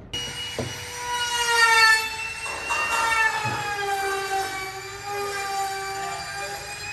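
A high-pitched mechanical whine or squeal of several steady tones, sagging slightly in pitch midway and rising again, with a few light knocks.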